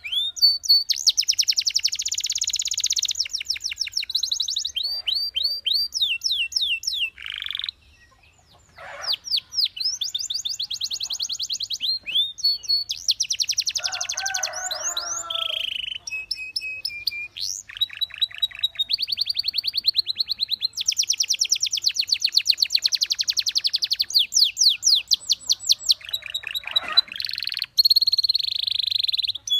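Belgian canary singing a long, continuous song of fast trills and rapidly repeated high notes, one phrase running into the next, with a brief pause about eight seconds in.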